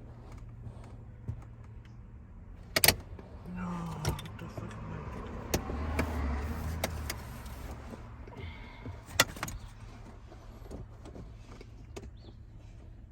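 Sharp clicks and knocks from handling parts and trim inside a car, with a few seconds of rubbing and rattling in the middle.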